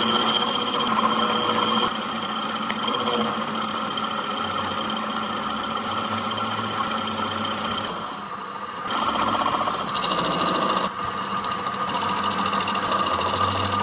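A workshop machine running steadily with a constant hum and whine. The sound changes abruptly about eight seconds in and again about eleven seconds in.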